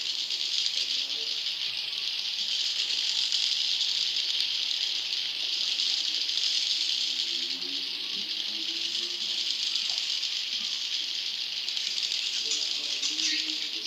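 Dense, unbroken chorus of juvenile edible-nest swiftlet calls: a steady, high-pitched buzzing chatter. This is a swiftlet lure call, played to attract wild young swiftlets to a nesting house.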